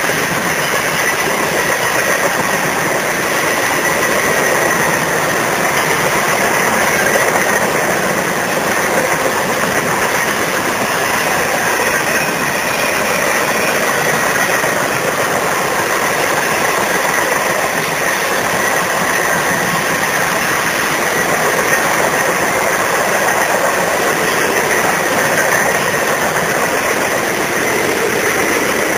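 CSX mixed freight train's cars rolling past on the track: a steady, loud noise of steel wheels on rails.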